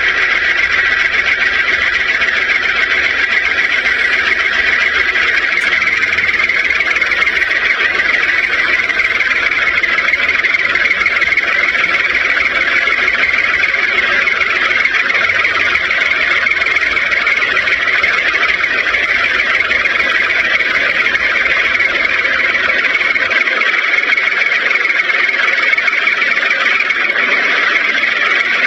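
A small electric motor running steadily, giving a constant, even whir with no change in speed.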